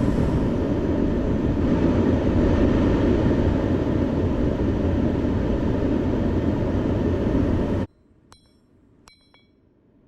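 A loud, steady rushing roar that cuts off suddenly near the end. After it, a few light hammer blows ring on steel.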